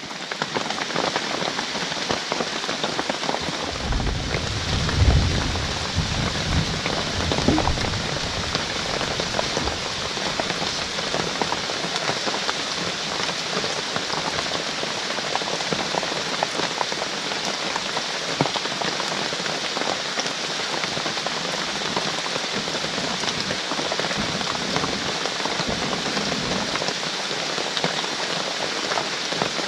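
Heavy rain pouring steadily, an even dense hiss, with a few low thumps about four to eight seconds in.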